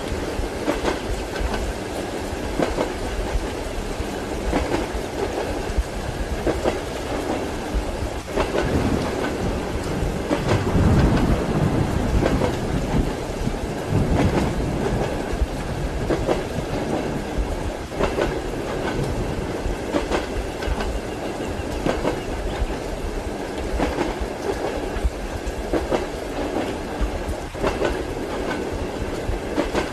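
Railway carriage wheels running over rail joints in a steady clickety-clack, over a continuous hiss of rain. A low rumble swells and fades about ten to thirteen seconds in.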